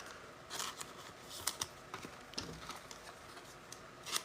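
Faint, irregular clicks and taps of trading cards being handled, flicked through one by one and set down.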